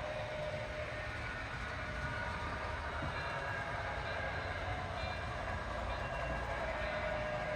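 HO scale model of a PRR T1 steam locomotive running, its Paragon 4 sound decoder playing steady steam-locomotive running sounds through the model's small speaker.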